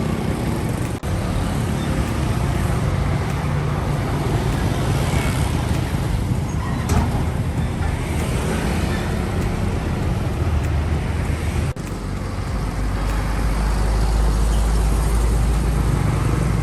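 Road traffic noise with a heavy truck's engine rumbling underneath, the low rumble growing stronger for the last few seconds. The sound breaks off for an instant twice, at cuts between shots.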